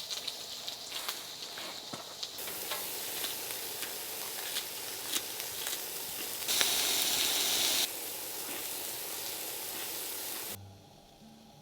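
Food sizzling and frying in a hot pan, with small pops and scraping as it is stirred. There is a louder stretch around the middle. The sizzle cuts off suddenly near the end, and soft music comes in.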